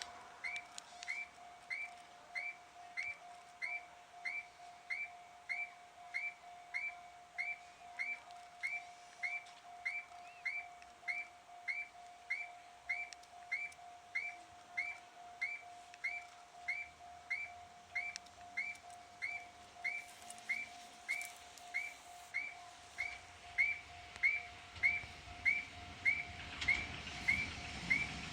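Electronic train-approach warning tone at a tram stop, a short falling chirp repeating about 1.7 times a second over a steady electrical hum. A rumble grows in the last few seconds as a train draws near.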